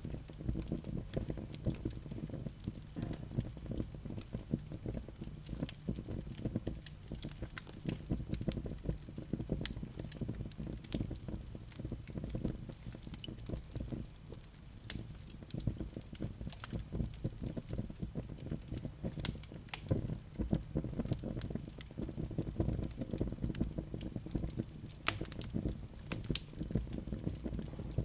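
Wood fire crackling in a fireplace: many small irregular pops and snaps over a steady low rush of burning.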